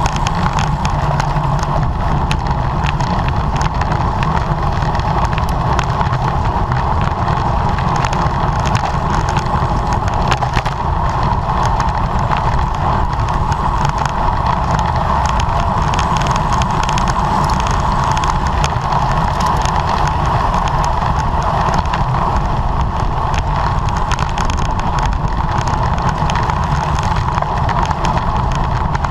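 Steady wind rush over the microphone of a camera mounted on a racing bicycle, with the rumble of tyres on the road.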